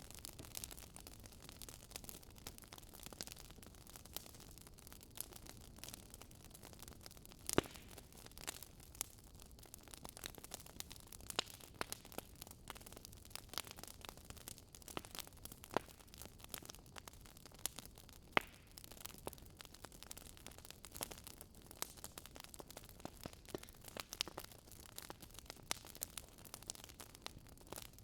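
Wood fire crackling in a fireplace: irregular sharp pops and snaps over a soft steady hiss, with a few louder pops standing out.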